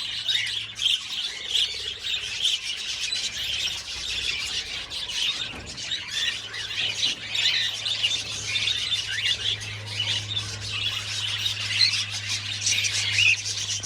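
A flock of budgerigars chattering continuously, a dense overlapping mix of chirps, warbles and squawks.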